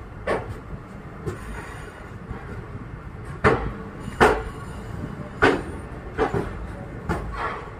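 Express passenger train rolling slowly into a station: a steady low rumble with sharp clacks from the wheels crossing rail joints, several coming in pairs about three-quarters of a second apart.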